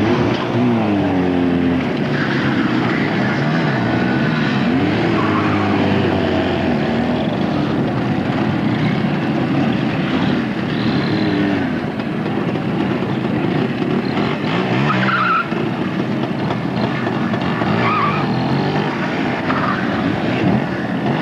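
Soviet motorcycle engines revving up and down again and again under stunt riding, the pitch rising and falling every few seconds over a rough, continuous noise.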